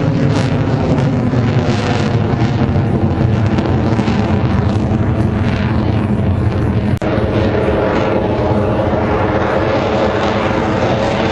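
Propeller airplane's engine running loud and steady, its engine note a stack of even tones, with a brief click and dropout about seven seconds in.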